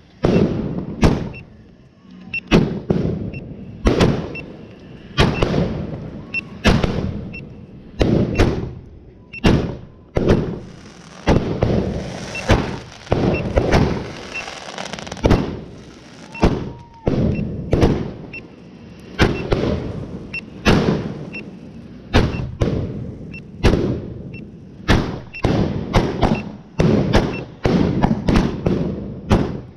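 A firework cake (a multi-shot barrage) firing shot after shot, one or two loud bangs a second, each with a short rolling tail.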